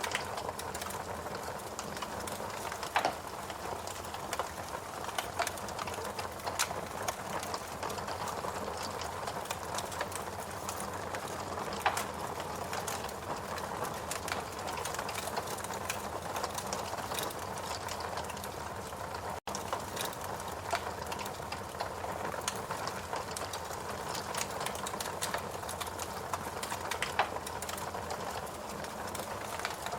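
Fireplace crackling with scattered sharp pops over a steady soft rushing background, cutting out for an instant about two-thirds of the way through.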